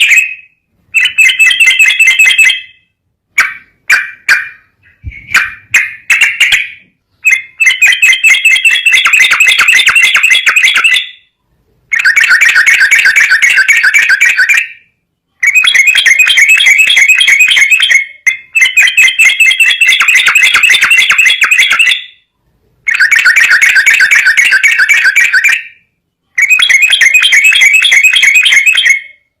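Recorded songbird calls used as baiting audio to get a yellow-vented bulbul singing: loud bursts of rapid, high trilling chatter a few seconds long with short pauses between them. A run of short separate notes comes about three to seven seconds in.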